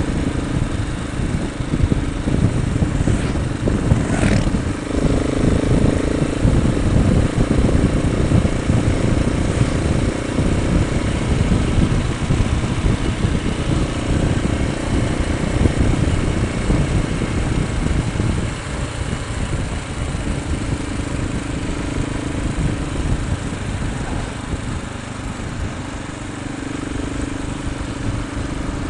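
Motorcycle engine running steadily while riding on the road, with a constant low rush of wind noise and a brief rise in pitch about four seconds in.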